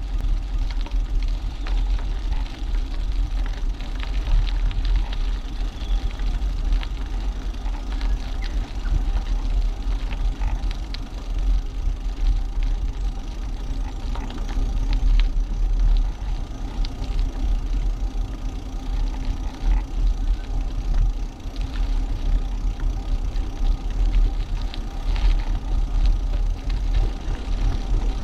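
Wind rumbling on a GoPro action camera's microphone as a bicycle rides along, with tyre and road noise and scattered light clicks and rattles from the bike.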